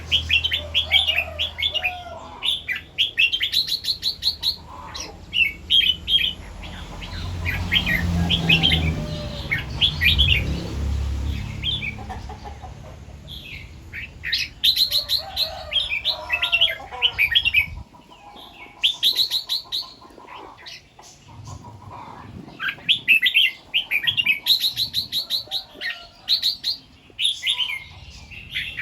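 Red-whiskered bulbul singing, short bright chirping phrases repeated again and again with brief pauses. A low rumble lies under the song for the first two-thirds, swelling about a quarter of the way in and stopping suddenly.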